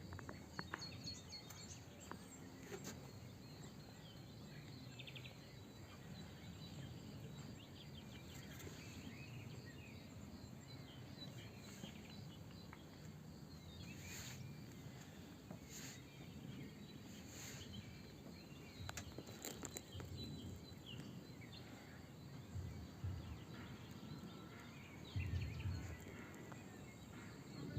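Quiet outdoor ambience: a low, uneven rumble with faint, scattered bird chirps, growing louder near the end.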